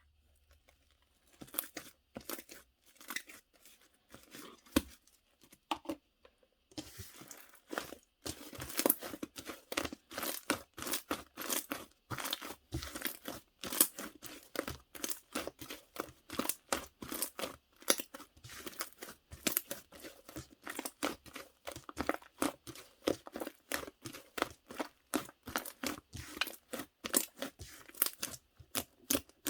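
Fluffy cloud slime being stretched, squeezed and pulled apart by hand, giving a quick run of small crackling, tearing snaps. The crackles are sparse at first and come thick and fast from about seven seconds in.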